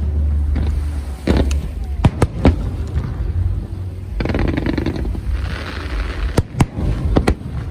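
Aerial fireworks bursting: sharp bangs, with a cluster about two seconds in and another near the end, over a steady low rumble. A brief hiss comes just before the last bangs.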